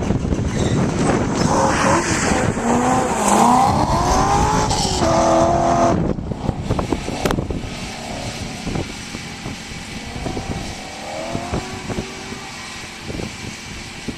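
Sports car engine running hard at an SCCA event, its pitch climbing and dropping through gear changes, loud for about the first six seconds and then fading away. A fainter engine note rises again a few seconds later.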